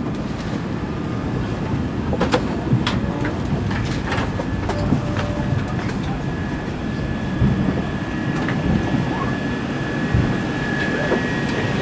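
Airliner cabin during boarding: a steady rumble of cabin ventilation with faint passenger murmur and scattered clicks and knocks, and a faint steady whine that comes in about halfway through.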